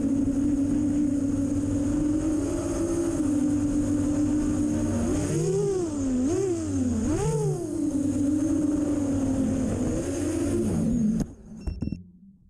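The brushless motors and propellers of an iFlight XL7 6S FPV quadcopter whine steadily. The pitch dips and rises several times midway, then the sound cuts off sharply about eleven seconds in.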